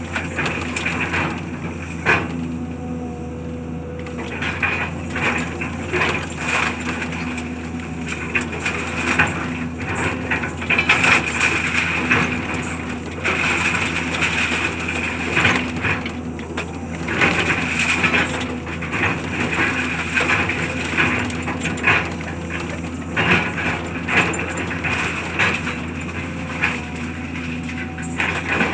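Demolition machinery running steadily while debris is crushed and broken, with frequent irregular cracks and knocks over the engine's hum.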